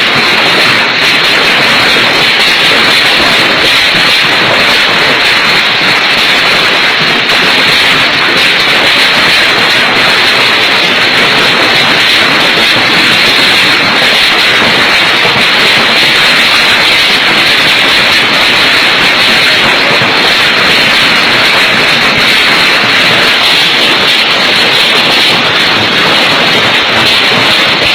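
Hailstorm: hailstones falling thick and fast, a loud, steady rush of countless small impacts.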